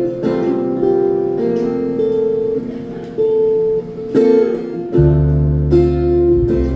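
Live acoustic band music in an instrumental break: strummed acoustic guitar chords changing every second or so, with a deep bass note coming in about five seconds in.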